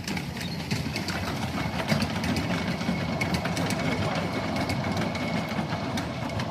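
Miniature live-steam locomotive running on a garden railway: a low rumble under many sharp, irregular clicks, with a faint steady high tone for a few seconds in the middle.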